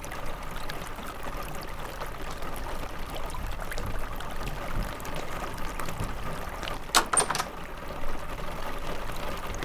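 Steady rain: an even hiss with many small drip ticks, and a quick cluster of sharp taps about seven seconds in.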